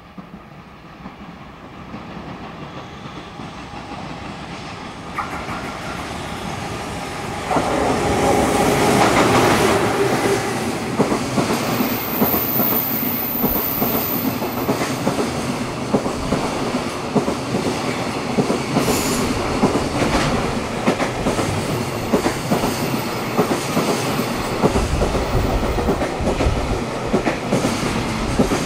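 Freight train hauled by a JR Freight EF210 electric locomotive approaching and passing. A rumble grows louder, then jumps sharply about a quarter of the way in, and the wagons' wheels clatter on over the rail joints in a steady, rapid rhythm.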